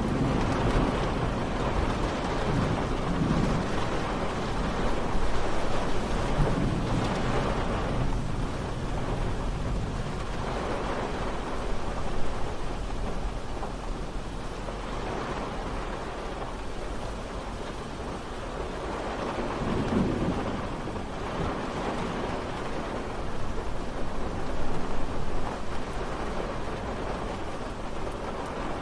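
Steady rain falling, with low rolling rumbles of distant thunder swelling and fading several times.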